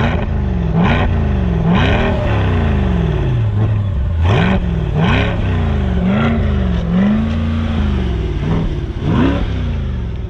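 Chevrolet Corvette C8 Stingray's 6.2-litre V8 revved at a standstill in a string of short blips, its pitch rising and falling each time, with one rev held a little longer in the middle. It is heard from close to the exhaust tips.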